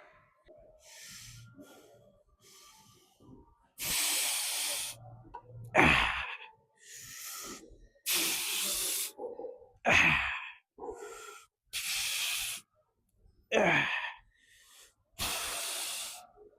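A man breathing hard through repetitions of a weight-lifting set: four forceful exhales of about a second each, roughly every four seconds, each followed by a short strained grunt that falls in pitch.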